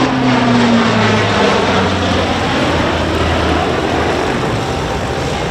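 Lockheed Martin C-130J Super Hercules passing by, its four turboprop engines and propellers droning loudly. The pitch drops as it goes past, and the sound slowly fades.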